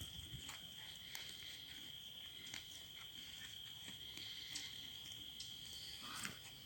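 An insect's steady high-pitched trill, held without a break, with scattered faint clicks.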